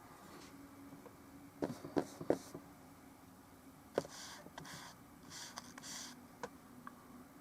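Paintbrush swishing in short strokes across a canvas, with a few sharp clicks and knocks from handling brushes and tools, over a low steady room hum.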